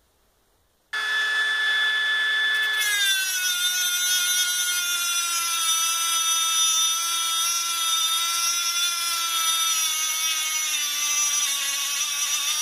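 Dremel rotary tool grinding 3D-printed stainless steel to widen slots. It starts about a second in with a steady high whine, drops in pitch about two seconds later as the bit bites into the metal under load, and sags a little further near the end.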